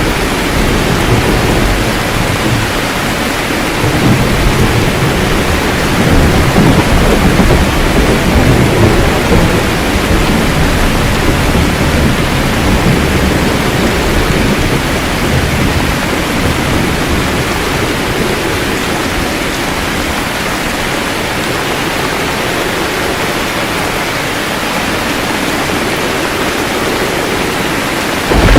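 Steady rain falling, with low rolling thunder rumbling through the first ten seconds or so and then fading. A loud thunderclap breaks in right at the end.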